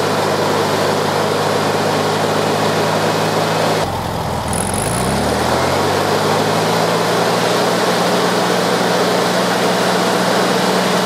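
1969 VW Beetle's air-cooled flat-four engine running at a raised speed. About four seconds in its pitch dips briefly, then climbs to a higher steady speed that holds, while the full 36 degrees of ignition advance of the new Pertronix distributor is checked with a timing light.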